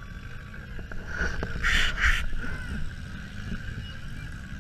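Demolition derby car's engine running, heard from inside the gutted cabin. About two seconds in come two short, loud hissing bursts, half a second apart.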